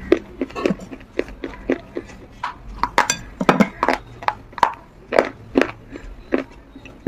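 Close-miked crunching of a dry white chalk-like clay bar being chewed, a crisp crunch every third to half second with a short break about two seconds in.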